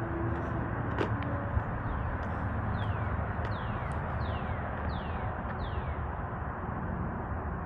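A songbird singing a run of five clear whistled notes, each sliding down in pitch, about one every 0.7 seconds, starting near three seconds in, over a steady low outdoor rumble.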